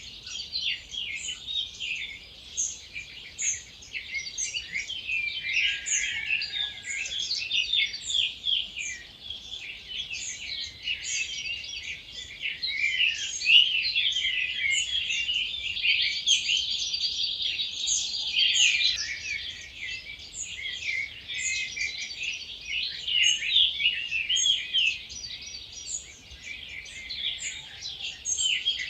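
Dawn chorus: many wild birds singing at once, a dense overlapping mix of chirps, trills and warbled phrases, fullest in the middle of the stretch.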